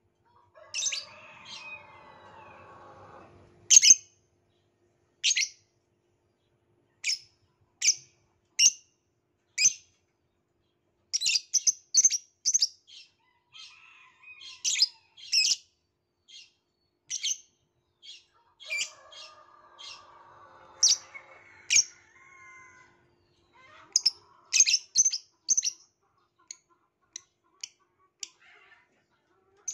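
Violet lovebird calling with short, sharp, high chirps at irregular intervals, sometimes in quick runs. Quieter, lower chattering comes at the start and again around the middle.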